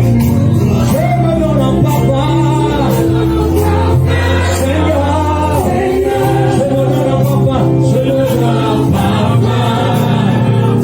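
Gospel worship music: voices singing together over sustained bass and keyboard chords.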